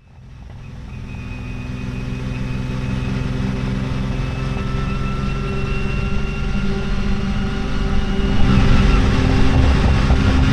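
Lamborghini Miura P400S's V12 engine running steadily. It fades in at the start and grows louder about eight seconds in.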